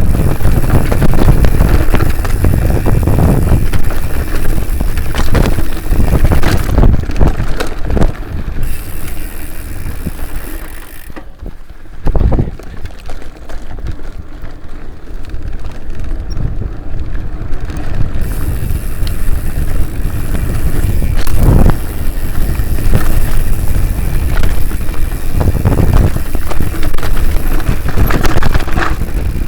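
Wind rushing over the microphone and a mountain bike clattering over rough ground, with many short knocks from bumps. It eases off for several seconds near the middle, then picks up again.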